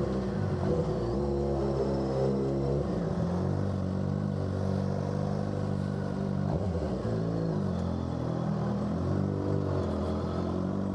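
Suzuki GSX-R600 inline-four with an M4 aftermarket exhaust running steadily, its pitch rising and dipping slightly a few times.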